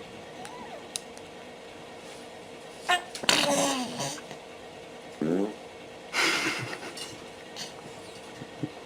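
A baby's short buzzy fart about five seconds in, between louder short bursts of breathy noise and a voice, around three and six seconds in, over a faint steady hum.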